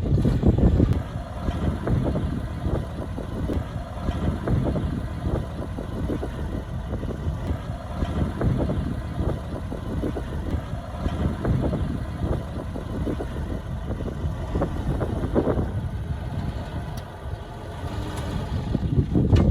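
Diesel engine of heavy earthmoving machinery running steadily, with small swells in level and louder near the start and again at the end.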